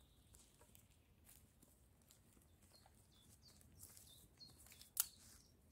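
Faint birds chirping in woodland, short high calls repeating more often in the second half, with one sharp snap about five seconds in.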